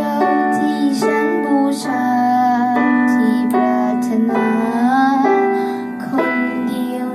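Music: a female voice singing over a piano accompaniment, the voice gliding between held notes.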